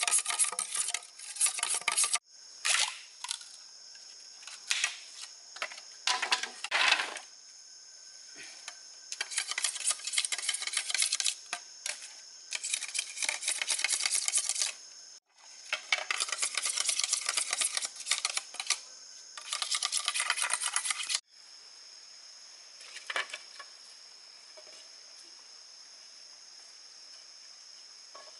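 Repeated bursts of scratchy scraping and rustling, broken by abrupt cuts, over a steady high chirring of insects; the scraping stops about two-thirds of the way in, leaving only the insects and faint outdoor ambience.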